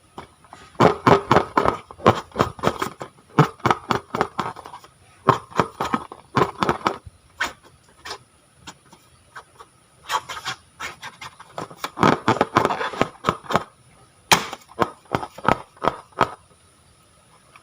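Slime being squeezed and worked by hand, giving bouts of sticky clicking and crackling pops with short pauses between them, and one sharp snap about two-thirds of the way through.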